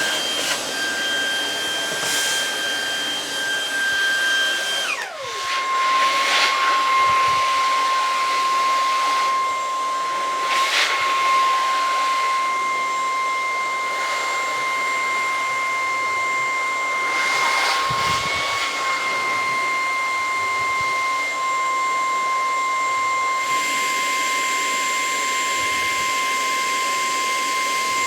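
Lupe Pure cordless stick vacuum running over carpet, its motor giving a steady high whine that drops sharply to a lower pitch about five seconds in and then holds there.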